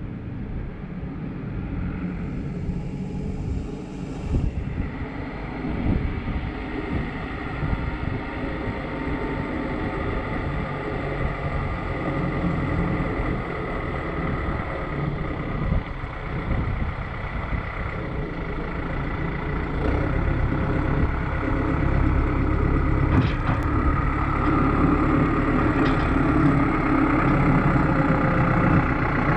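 A heavy vehicle's engine running steadily, with a faint steady whine, getting louder about twenty seconds in.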